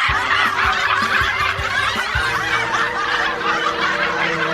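Many people laughing hard at once, a dense, continuous burst of overlapping laughter, with a few low thuds in the first couple of seconds.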